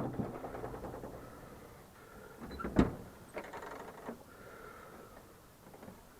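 Two knocks, one right at the start and a louder one about three seconds in, with faint rustling between them.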